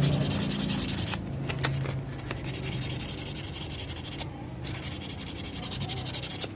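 1000-grit sandpaper rubbed rapidly back and forth over the burned metal contact of a car power-window switch, scouring off the scorch. The scratching stops briefly twice, about a second in and about four seconds in.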